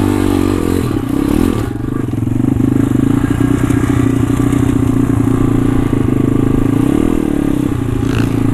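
Pit bike engine running under way at steady revs, easing off briefly about two seconds in and then holding steady.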